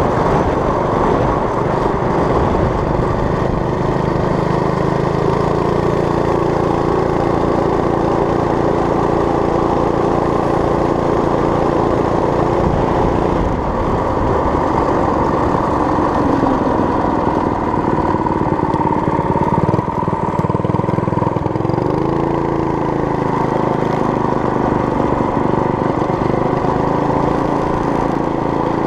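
Small engine of a homemade mini bike running steadily, its pitch dipping and rising a few times as the throttle changes.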